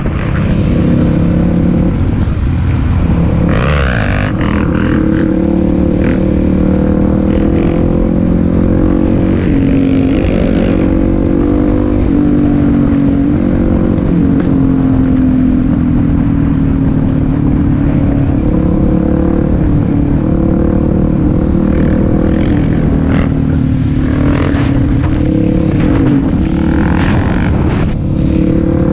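Suzuki DR-Z400SM single-cylinder four-stroke engine running steadily at highway cruising speed, its note wavering slightly up and down, with wind rush on the microphone.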